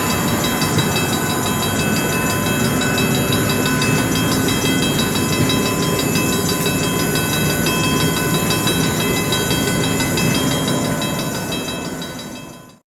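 Train cars rolling past on the rails: a steady rumble and clatter with several high, steady squealing tones over it. The sound fades away near the end, then cuts off.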